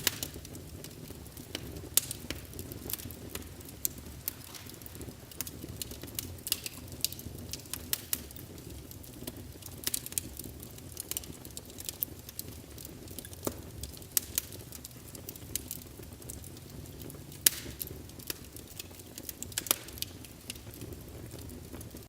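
Small wood fire crackling in a fireplace: irregular sharp pops and snaps, a few louder ones, over a low steady rumble.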